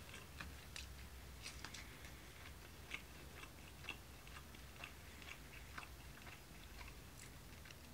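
Faint chewing: a man eating a mouthful of rice, with small, irregular mouth clicks.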